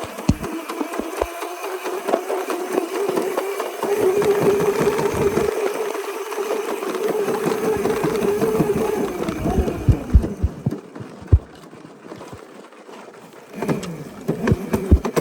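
Small dirt bike engine running at steady revs for several seconds, then falling away and getting quieter about two-thirds of the way through, and picking up again near the end, with scattered low knocks and bumps.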